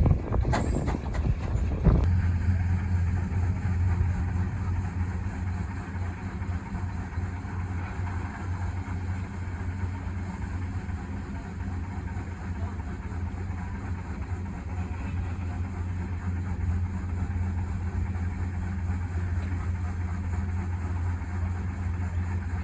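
A couple of knocks, then from about two seconds in a steady low engine drone of a running vehicle with an even noise over it.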